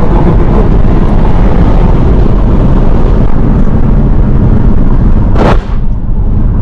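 Loud, heavy vehicle rumble, overloading the recording, with one sharp blast about five and a half seconds in.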